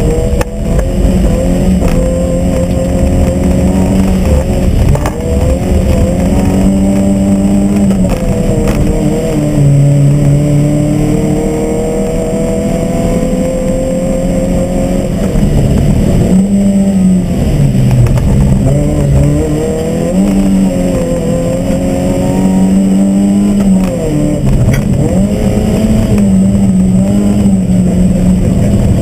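Fiat Cinquecento 1.1 rally car's four-cylinder engine, heard loud from inside the cabin, revving hard under acceleration. The pitch climbs and then falls sharply at each gear change, several times over, as the car is driven fast along the stage.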